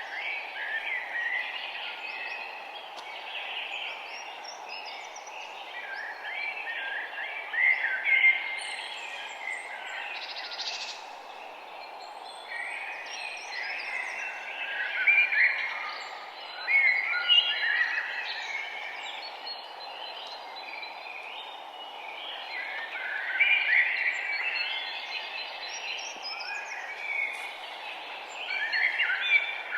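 Several songbirds chirping and singing in overlapping bursts over a steady background hiss.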